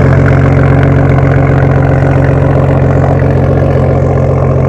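BMW car engine idling steadily through its exhaust, a loud, even low drone with no revving.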